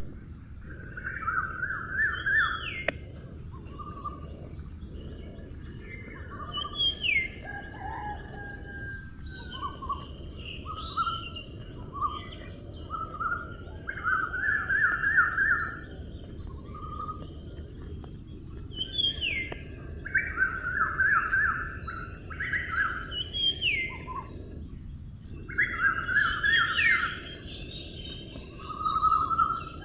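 A songbird singing short phrases every few seconds, each a quick run of repeated notes with brief upward-slurred whistles, over steady background noise.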